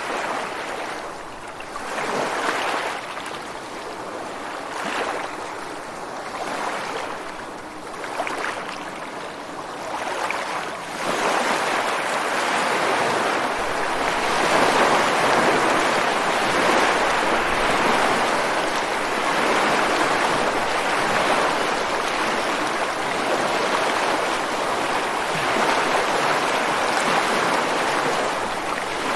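Ocean surf breaking and washing against rocks on a beach. A few smaller surges come and go over the first ten seconds or so, then a louder, sustained rush of surf sets in about eleven seconds in.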